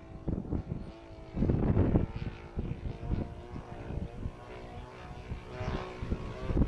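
Radio-control P-47 model's Evo 35cc two-stroke gas engine buzzing in flight, its pitch shifting up and down as the plane passes, with wind gusting on the microphone.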